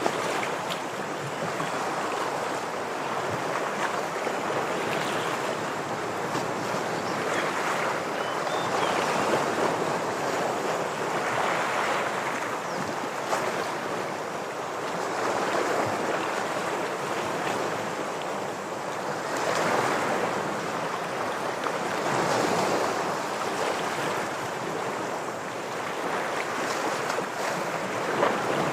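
Ocean waves washing against shoreline rocks, a steady rush of surf that swells and falls back every few seconds.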